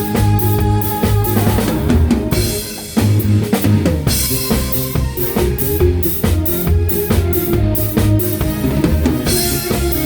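Live band playing a song: a drum kit keeps the beat with bass drum and snare over bass and other pitched instruments. The playing thins out briefly just before three seconds in, then the full band comes back in on a hit.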